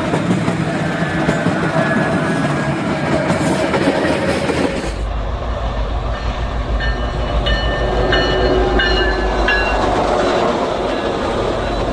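Union Pacific freight train rolling past, its wheels clattering over the rails. About five seconds in the sound changes abruptly to a deeper rumble, with short high-pitched tones coming and going over it for a few seconds.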